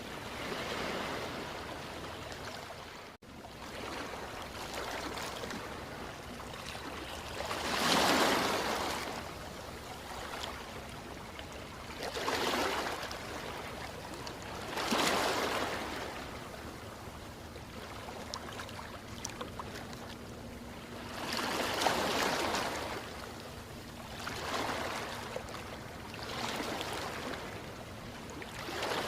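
Ocean waves washing in one after another, each surge swelling and fading over a steady hiss of surf. The sound drops out for an instant about three seconds in.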